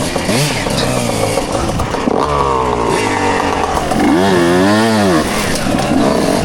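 Dirt bike engines running and revving, the pitch climbing and dropping with the throttle, with one sharp rev up and back down about four seconds in.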